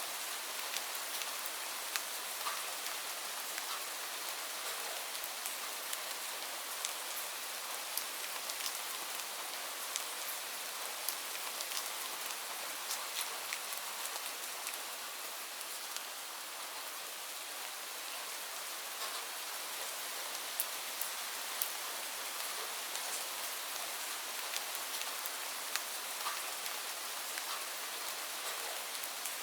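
Steady rainfall: an even hiss of rain with many separate drops ticking sharply on a surface.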